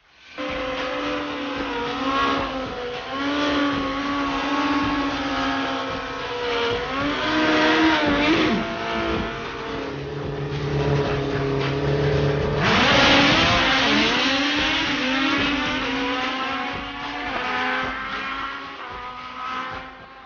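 Drag-racing motorcycle engines running loud and revving, with pitch rising and falling. About two-thirds of the way in, a sudden louder surge with rising pitch as a bike accelerates hard.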